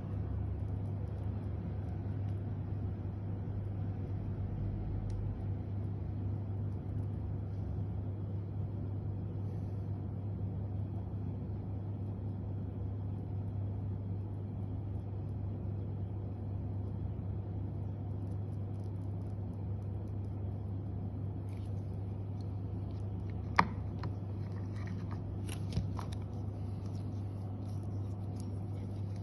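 Steady low hum with background noise, broken near the end by a couple of sharp clicks or knocks, one much louder than the other.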